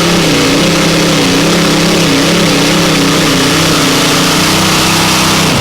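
Tractor-pulling engine running loud and steady, its pitch wavering slightly up and down with small changes in revs.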